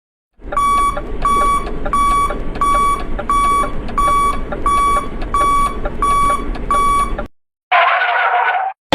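Electronic beeper sounding a steady run of ten identical high beeps, about one and a half a second, over a constant background noise. After the beeps cut off there is a short burst of noise lasting about a second.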